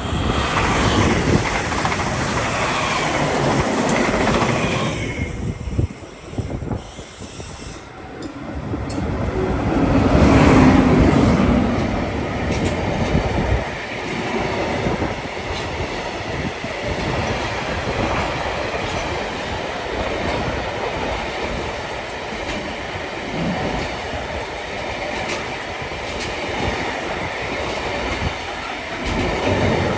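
A train running past on the line, its wheels and cars making a steady noise on the rails. After a short dip it comes to its loudest about ten seconds in, then runs on at an even level.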